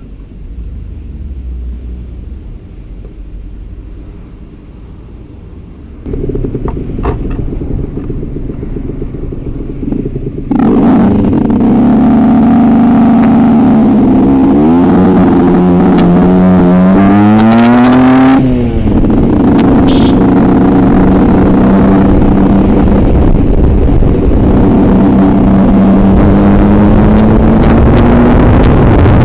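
Aprilia RS 125 two-stroke single-cylinder engine running, low at first and much louder from about ten seconds in. The pitch climbs through the revs, falls suddenly about eight seconds later, then holds steady and rises again near the end.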